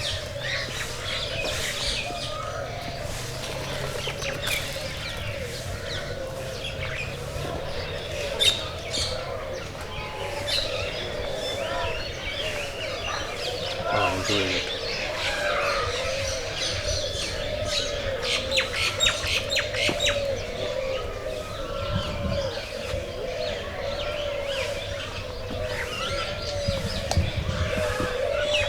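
A mass of aviary birds chirping and calling together, many short chirps over a continuous, wavering chorus of lower repeated calls.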